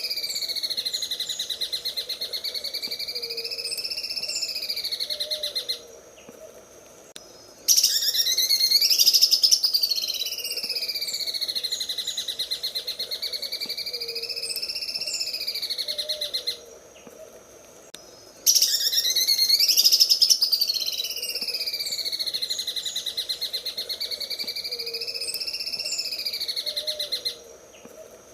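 Greater green leafbird (cucak ijo) singing in the 'sewing machine' style: a fast, unbroken rattling trill that swings slowly up and down in pitch. It comes in long phrases of about ten seconds with pauses of about two seconds between, the same phrase repeating.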